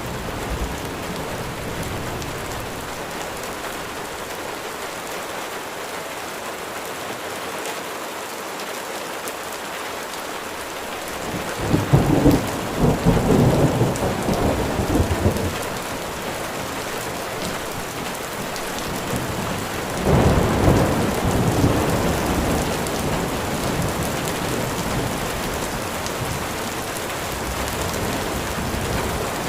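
Steady rain falling, an even hiss, with two rolls of distant thunder, a longer one about twelve seconds in and a shorter one about twenty seconds in.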